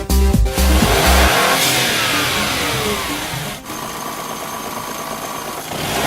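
Electronic dance music with a heavy beat stops about a second in. A car engine then revs and falls back with a loud rushing noise, and after a sudden cut it runs on steadily with a thin whine over it.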